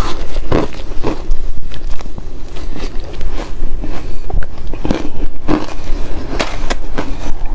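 Ice being bitten and chewed close to the microphone: loud, irregular crisp crunches one after another.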